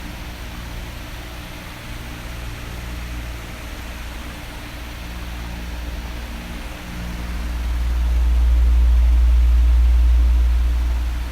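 Oscillating electric fan blowing with a steady airy hiss and a low rumble. The rumble swells louder about seven seconds in and eases off again near the end, as the air stream sweeps across the microphone.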